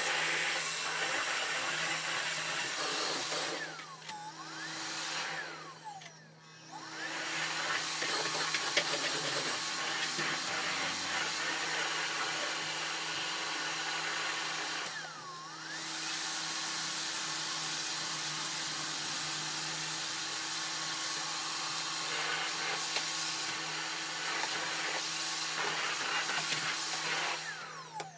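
Vacuum cleaner running steadily. Its sound dips a few times, about 4 to 6 seconds in and again around 15 seconds, the pitch falling and then rising back.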